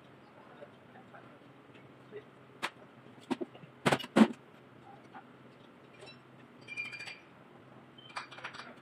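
Scattered metallic clicks and knocks of tools and engine parts being handled, with a pair of louder knocks about four seconds in and bursts of light clinking near the end.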